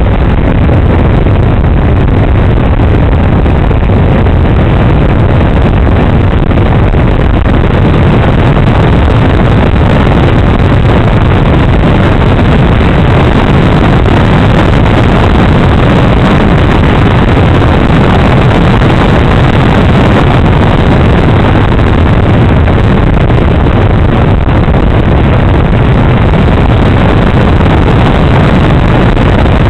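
Steady, loud rush of air and motor noise heard from a camera on board a Kadet radio-controlled model airplane in flight.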